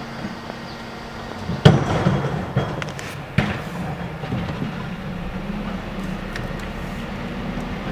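Garbage truck engine running steadily, with a loud bang and clatter about a second and a half in, a second bang about two seconds later, and lighter rattling after.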